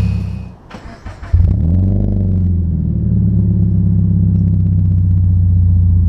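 Exhaust note of a Scion FR-S's 2.0-litre flat-four through an aftermarket catback exhaust, cutting in abruptly about a second and a half in. It then runs at steady low revs before fading out near the end.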